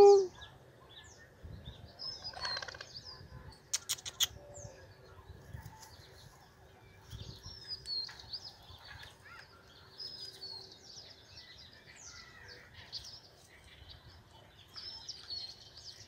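Birds chirping outdoors: short, high calls scattered throughout, with three sharp clicks about four seconds in.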